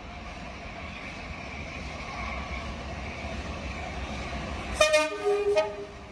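Train horn sounding a short two-tone blast about five seconds in, a higher note then a lower one, over the steady rumble of a running train.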